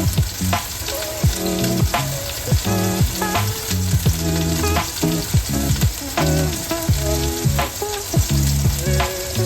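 Pot of mole sauce bubbling and sizzling hot on the stove, under background music with a steady beat and bass line.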